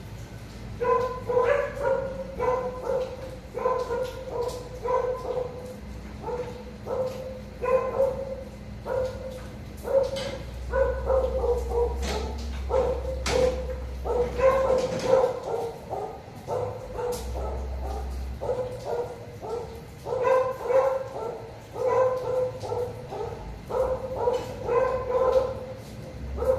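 A dog barking over and over, about two short barks a second, starting about a second in.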